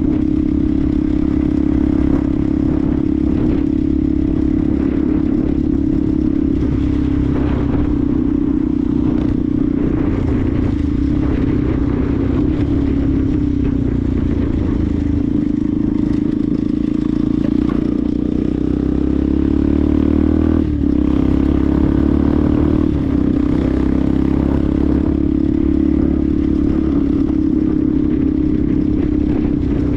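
Benelli TNT 125's small single-cylinder four-stroke engine running at a steady cruising speed, over a steady rush of wind and road noise. About twenty seconds in, the engine note drops briefly, then settles again.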